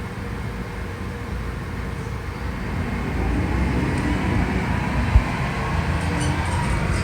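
Diesel engine of a Mack MRU613 front-loader recycling truck rumbling steadily and growing louder, with a single short low thump about five seconds in.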